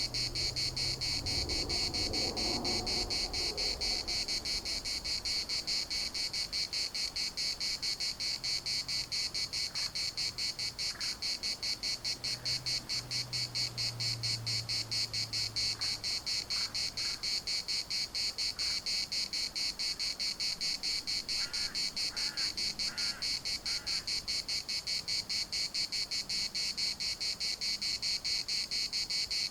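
Chorus of cicadas: a steady, fast-pulsing high buzz. A few faint short chirps break in, mostly in a cluster about three quarters of the way through, over a faint low hum.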